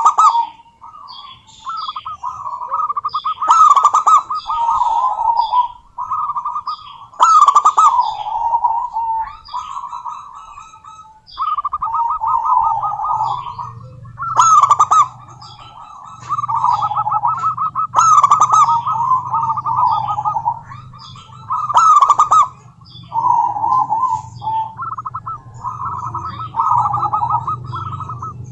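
Female zebra dove calling in repeated bursts of rapid, trilling coos, each a couple of seconds long, with sharp high chirps mixed in. A faint low hum runs under the calls from about twelve seconds in.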